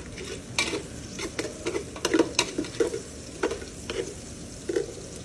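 A spoon stirring in a pot of food frying in red palm oil: irregular scraping knocks against the pot over a steady sizzle.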